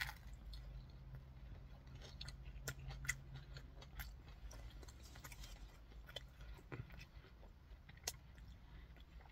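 A person biting into a crispy fried chicken drumstick and chewing it: a crunch right at the start, then faint, scattered chewing clicks and crunches.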